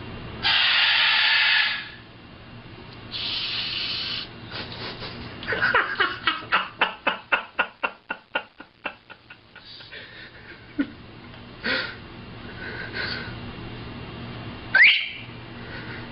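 Macaw giving two breathy 'shh' shushing hisses near the start, then a rapid run of about four or five clicks a second for a few seconds, and a short rising squeak near the end.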